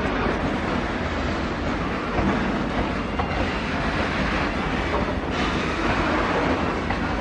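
Freight train of tank wagons rolling past, a steady rumble and rattle of steel wheels on the rails.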